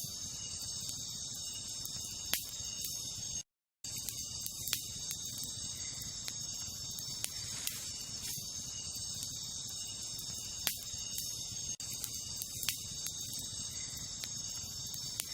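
Wood campfire crackling, with scattered sharp pops every few seconds over a low steady hiss, against a steady high chorus of insects. The sound cuts out completely for a moment about three and a half seconds in.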